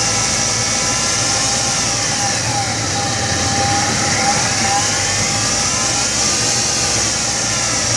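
1999 Chevrolet S10's 2.2-litre four-cylinder engine running steadily at idle, with a whirring, chattering timing-chain noise. Its tone slowly sweeps up and down every few seconds. The owner asks whether this noise means the timing set needs replacing at 86k miles.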